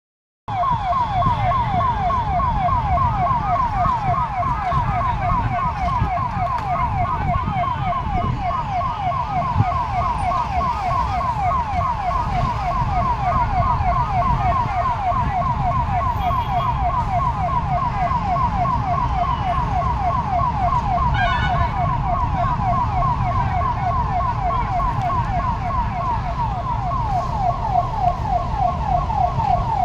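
Emergency vehicle siren in a fast yelp: a rapidly repeating rising wail that runs on without a break, over a steady low rumble of engine and traffic.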